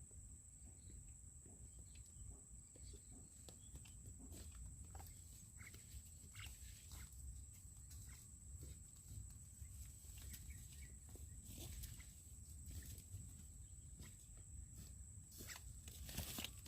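Faint outdoor ambience: a steady high-pitched whine under scattered soft clicks and rustles, which come more often near the end.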